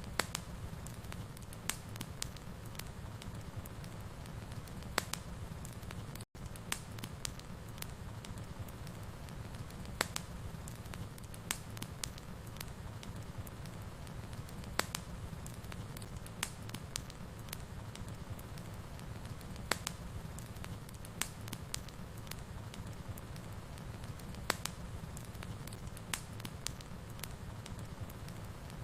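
Fire burning in a fireplace: a steady low rumble with sharp, irregular crackles and pops every second or so. The sound cuts out for an instant about six seconds in.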